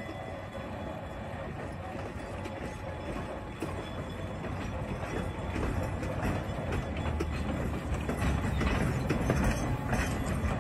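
East Broad Top narrow-gauge passenger train rolling slowly past behind a small diesel switcher: a low engine hum and steel wheels clicking over the rail joints. It grows steadily louder as the coaches and open cars draw near.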